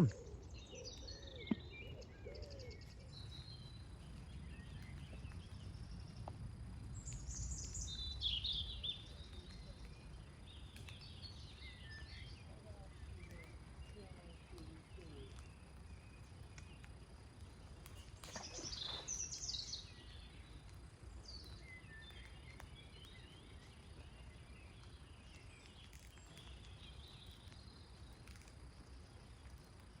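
Wild birds singing and chirping in scattered phrases, with the clearest bursts of song about a quarter and two-thirds of the way through, over a steady low background rumble.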